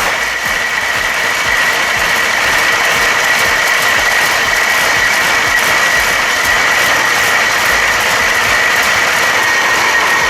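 An engine running steadily, with a dense mechanical clatter and a steady high whine.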